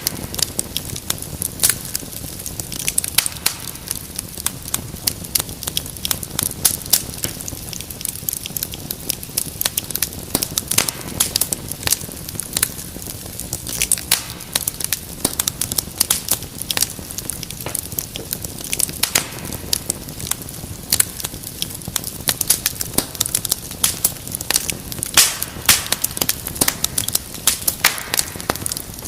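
Wood fire in a fireplace crackling steadily, with many sharp irregular pops and snaps over a low rumble of burning.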